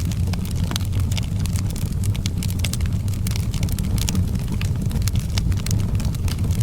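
Outdoor wood fire burning with a low steady roar and frequent sharp, irregular crackles and pops.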